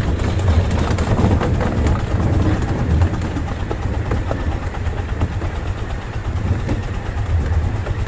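Ride aboard a Redwood Valley Railway miniature train: a steady low rumble of the cars rolling, with frequent small clicks of the wheels on the rails.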